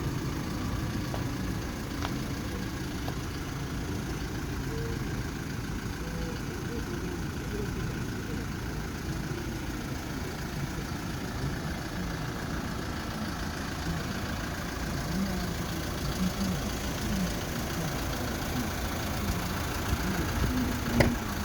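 Kia Bongo III cargo truck's 3.0-litre diesel engine idling steadily.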